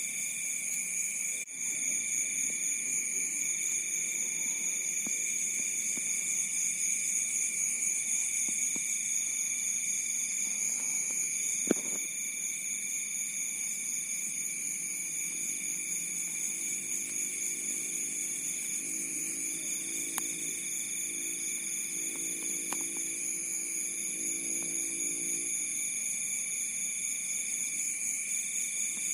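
A chorus of crickets trilling steadily at several high pitches at once, one of them cutting in and out in runs of about two seconds. A single sharp click comes about twelve seconds in, and a faint low drone sits underneath in the second half.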